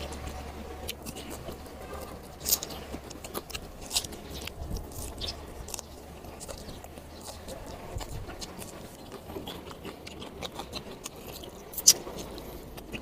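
Close-up eating sounds: a man biting and chewing fresh red chili peppers and grilled fish, with frequent crisp clicks and lip smacks. One sharp click just before the end is the loudest.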